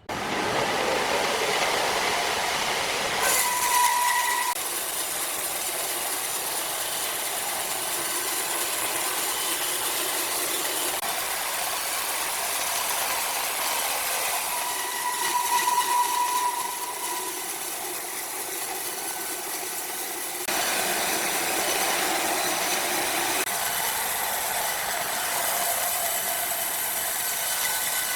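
Sawmill machinery running steadily as a large saw cuts through a big log, with a pitched whine rising twice, about four seconds in and again about sixteen seconds in. The sound changes abruptly a few times.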